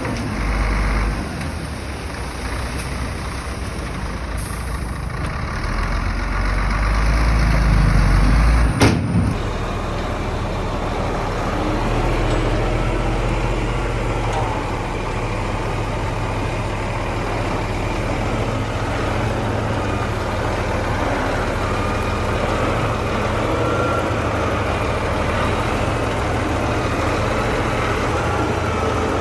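Diesel engines of heavy earthmoving machinery running, with a deep rumble for the first nine seconds. A sharp click about nine seconds in, after which the sound settles into a steadier engine drone.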